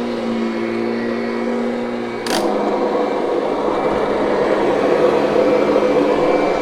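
Kirby direct-air upright vacuum running with a steady motor hum; a sharp click about two seconds in, after which it sounds noisier and a little louder.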